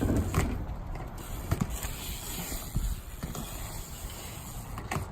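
Skateboard wheels rolling on concrete with a steady low rumble, punctuated by several sharp clacks of the board and trucks.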